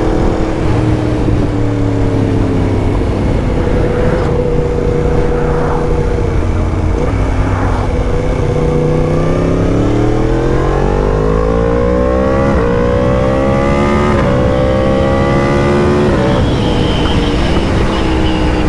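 Yamaha MT-10's crossplane inline-four engine through an Akrapovic exhaust, heard from the bike while riding. It runs steadily at first, then the pitch climbs for several seconds under acceleration, dipping briefly twice, and settles again near the end.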